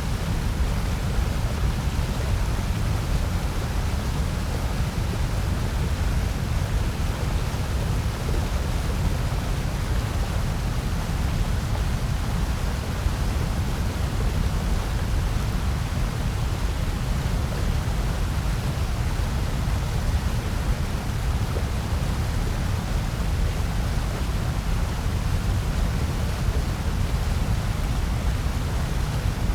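Steady synthetic white noise: an even, unbroken hiss with most of its weight in the low end.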